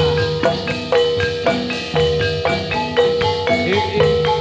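Javanese gamelan music: metal-keyed mallet instruments strike a repeating melody at about two notes a second over low drum strokes, with a brief drum pitch bend near the end.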